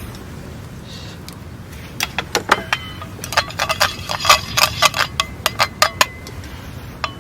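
A plastic sashimi pack being opened and handled: a quick run of sharp clicks and clacks that starts about two seconds in and stops about a second before the end.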